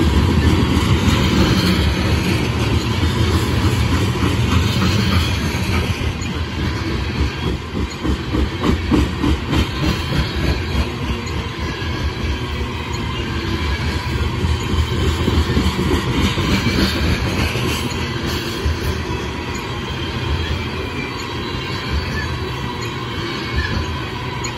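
Coal gondolas of a unit coal train rolling past: steel wheels running on the rails with a steady rumble and rapid, rhythmic clacking as the wheel sets pass over rail joints.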